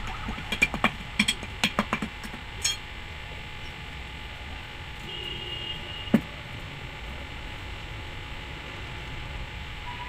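A quick, irregular run of sharp clinks and taps of hard objects being handled, about eight in the first two and a half seconds, then a single louder knock a little after six seconds, over a steady background hum.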